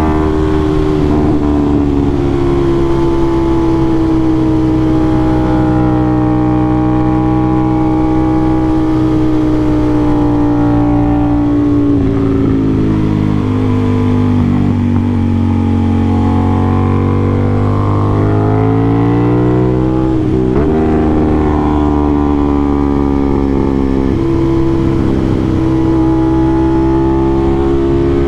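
Aprilia RS660's 659 cc parallel-twin engine through an SC-Project CRT aftermarket exhaust, running hard under way at fairly steady revs. The pitch sags and climbs again twice, about twelve and twenty seconds in, as the bike comes off the throttle and pulls again.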